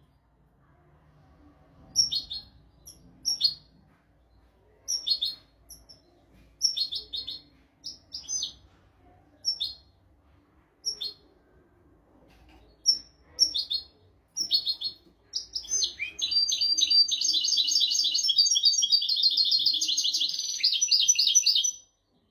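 European goldfinch singing: scattered short twittering phrases and chirps, then about six seconds of unbroken rapid twittering song that stops just before the end.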